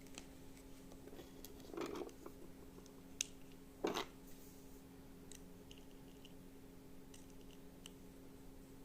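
Scattered handling noises of parts being fitted by hand: a scrape about two seconds in, a sharp click, then a louder knock and scrape about four seconds in, followed by a few faint ticks, over a steady low hum.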